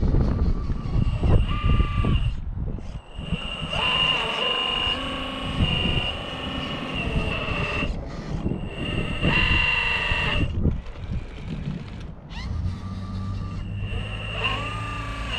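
Radio-controlled rock crawler's electric motor and gears whining as it drives, starting and stopping several times with the pitch shifting as the throttle changes. Heavy wind buffeting on the microphone underneath.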